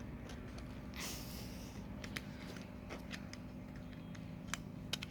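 Faint handling of small model parts being fitted together: a few scattered light clicks and a brief rustle about a second in, over a low steady hum.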